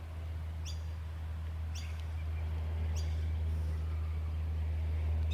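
A bird calling in short, high, downward-sweeping chirps about once a second, over a steady low hum.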